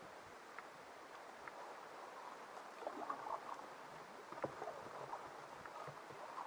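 Canoe paddling on calm water: faint, steady water noise with a few soft splashes from the paddle strokes.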